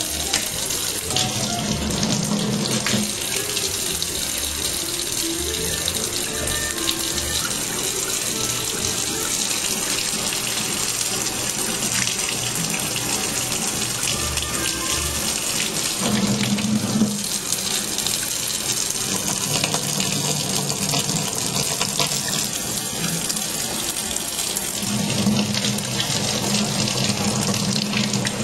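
Kitchen faucet running steadily, its stream of water splashing into a metal sink, and near the end onto a cat's head.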